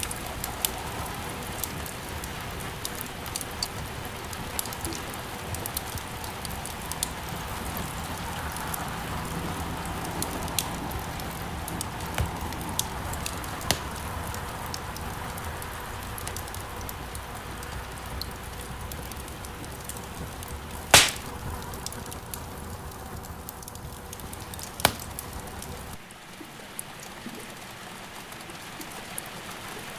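Wood fire crackling with scattered small pops over a steady hiss of rain. One loud sharp pop comes about two-thirds of the way in, and a smaller one a few seconds later.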